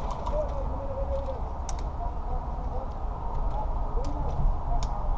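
Steady low rumble of outdoor background noise, with faint soft wavering calls and a few sharp clicks about two, four and five seconds in.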